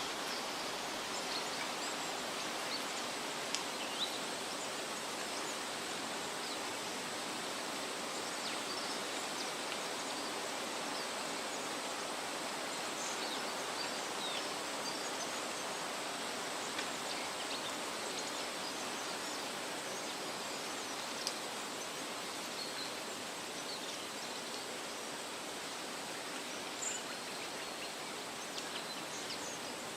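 Steady rustling of wind through leafy trees, with scattered brief, faint high bird chirps.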